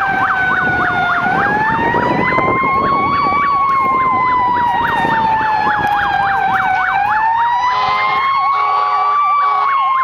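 Fire engine sirens sounding while it responds: a slow wail rising and falling over several seconds, with a fast yelp sweeping up and down several times a second on top. A few short horn blasts come in near the end.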